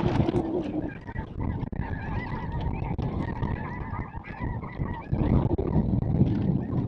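A large flock of snow geese calling, a dense overlapping chorus of short high honks, over a low rumble that grows louder after about five seconds.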